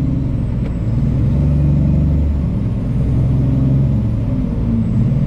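Peterbilt semi truck's diesel engine running at low speed, a steady low drone.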